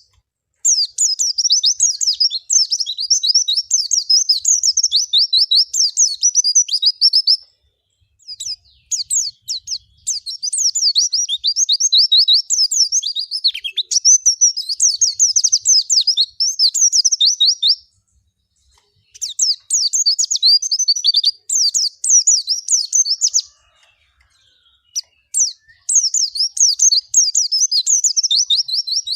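White-eye (pleci) singing a long, rapid, high twittering warble in four extended phrases, each several seconds long, with short pauses between them.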